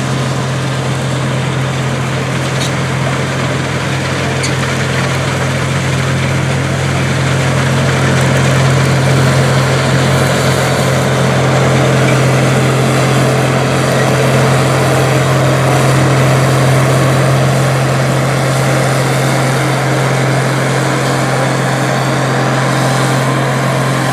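Case IH 1660 Axial-Flow combine harvesting soybeans: its diesel engine runs at a steady pitch over the broad noise of the working machine, getting a little louder about a third of the way in.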